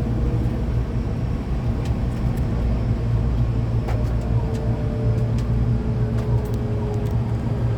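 Hankyu electric train running, heard inside the car: a steady low rumble of wheels on rail with thin, steady motor and inverter tones above it and a few sharp rail clicks.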